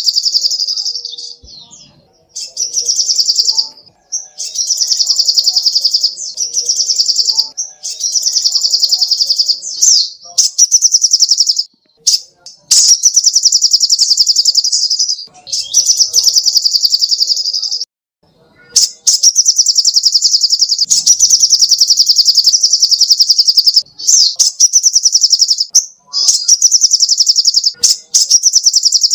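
Little spiderhunter (sogok ontong) singing: a long series of fast, high-pitched trills of sharp chips, each trill lasting one to two seconds with short breaks between them.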